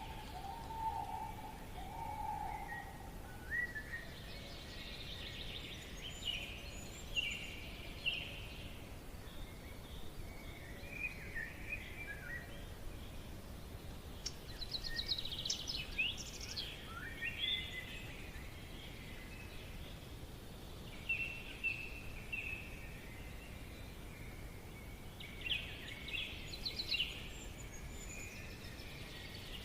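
Forest ambience: several birds chirping and trilling on and off over a steady low background hiss, with a lower held whistling call during the first few seconds.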